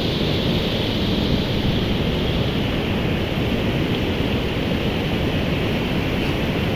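Beas river in flood: a steady, loud rush of fast, swollen water.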